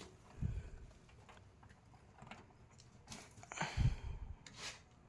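Handling noises: a low thump about half a second in and a louder one near four seconds, with brief rubbing and scraping between, as the unpacked fan or its packing is moved.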